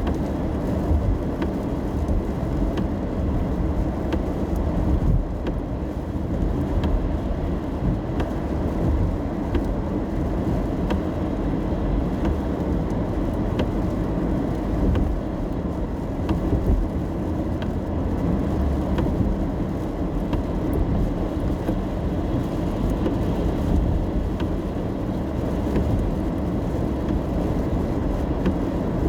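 Car driving in the rain, heard from inside the cabin: a steady low road and engine rumble with scattered faint ticks.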